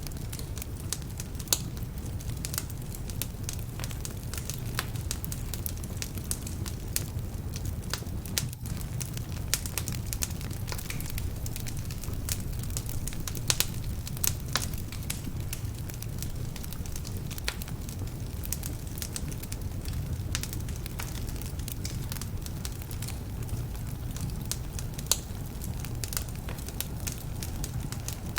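Wood fire burning in a fireplace, with frequent irregular crackles and sharp pops over a steady low rumble. Some of the logs are damp, which adds to the crackling.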